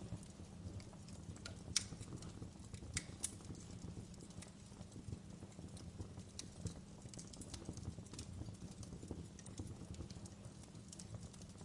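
Wood fire crackling in a fireplace: scattered sharp snaps and pops over a low steady rumble, with a few louder pops about two to three seconds in.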